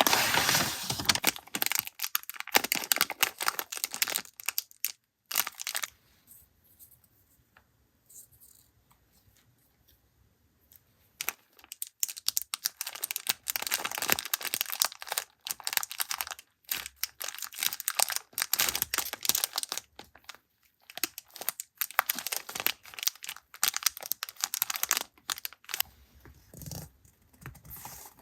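Paper and plastic stationery packaging being handled and opened, crinkling and tearing in crackly bursts. It goes quiet for several seconds partway through, then the crinkling resumes.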